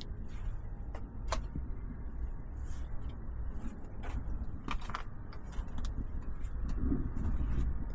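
Split firewood being handled and stacked: a few sharp knocks of wood on wood, over a steady low rumble.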